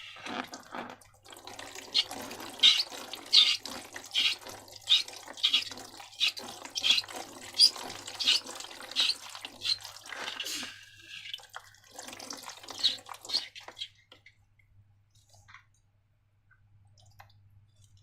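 Slime squelching and clicking in a regular rhythm, about one squelch every 0.7 seconds, as it is squeezed and worked by hand. The squelching pauses briefly, comes back for a short run, then stops about 14 seconds in.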